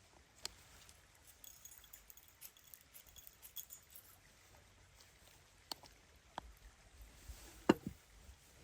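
A few scattered sharp clicks and knocks, the loudest a single knock with a short ring near the end.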